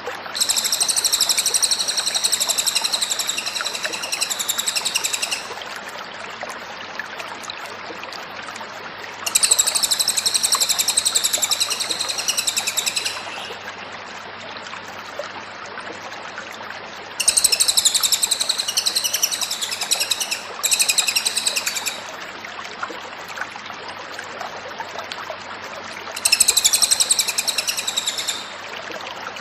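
Cililin bird singing in five bouts of one to five seconds, with pauses between them, over a steady background hiss.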